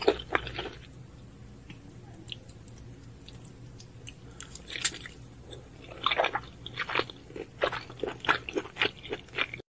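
Close-miked chewing of shellfish meat: a few chews at the start, then a quieter stretch with a sharp click as a shell is handled near the middle, then steady wet chewing about three strokes a second from about six seconds in, until the sound cuts off abruptly near the end.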